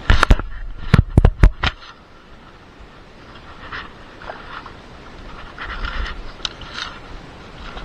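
A quick series of loud knocks, about six within the first two seconds, followed by softer, irregular scraping and rustling.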